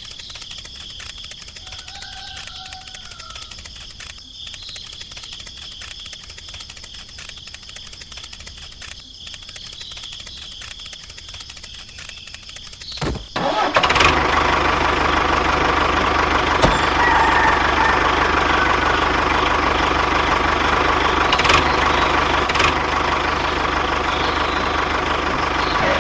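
A small motor runs with a faint, rapid ticking for the first half. About halfway through, a much louder, steady motor sound starts abruptly and keeps running.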